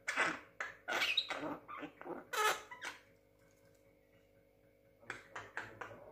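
Young Javan myna calling in a string of short, harsh bursts, then a pause of about two seconds and a few more short calls near the end.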